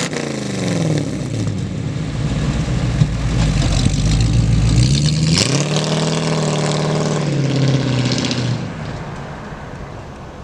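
350 V8 engine in a 1933 DeSoto sedan. It revs, settles back, revs up again about halfway through, holds that pitch for a few seconds, then fades away near the end.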